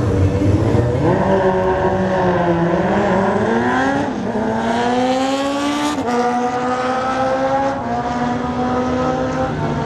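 Sports motorcycle engine revving up and down, then a long steady rise in pitch that drops suddenly about six seconds in and holds high after.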